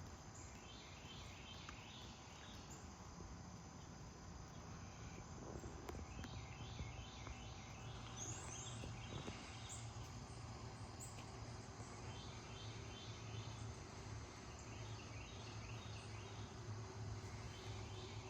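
Quiet outdoor morning ambience: repeated short trains of high chirps that come and go, a few brief higher chirps around the middle, and a steady low hum underneath.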